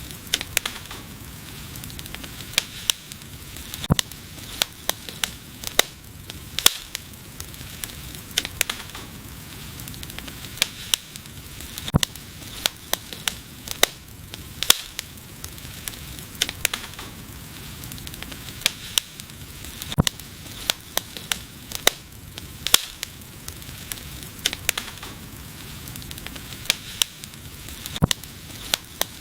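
Wood fire burning, with a steady low hiss and frequent sharp, irregular pops and crackles.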